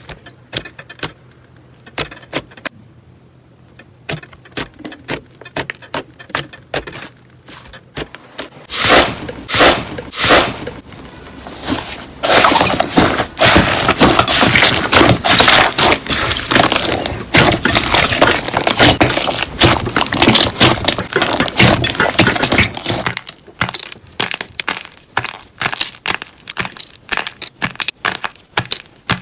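Slime being squeezed and pressed by hand, giving sharp pops and crackles, with a long dense run of crackling through the middle.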